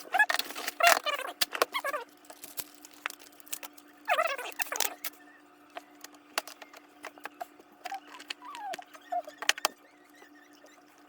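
Small clicks and light rattles of laptop parts being handled while an SSD is swapped, over a faint steady hum.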